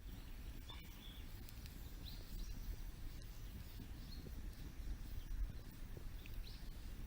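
Faint outdoor ambience with a few short, distant bird chirps scattered through it and an occasional faint tick.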